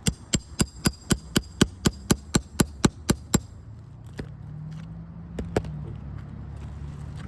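Roofing hammer tapping a nail puller under a shingle nail: about fourteen quick, sharp strikes at roughly four a second that stop about three and a half seconds in, then two more strikes a couple of seconds later.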